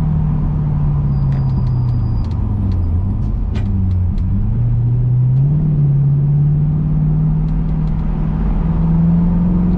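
Chevrolet Camaro V8 engine running at low speed, heard from inside the cabin. Its note sinks over the first few seconds, then rises about five seconds in as the car picks up speed, with a few faint light clicks along the way.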